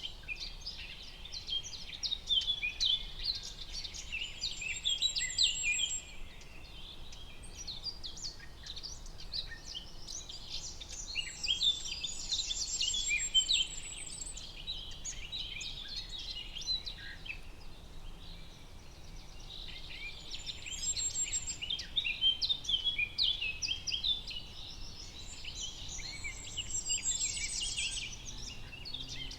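Many songbirds singing and chirping together in a forest, in waves of dense, overlapping calls, with a few high buzzy trills, over a faint steady background hiss.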